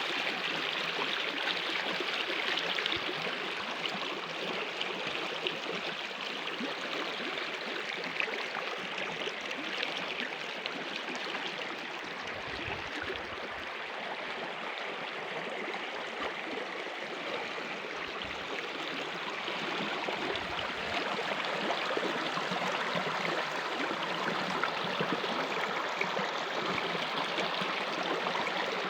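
Stream water flowing, a steady, even wash of running water.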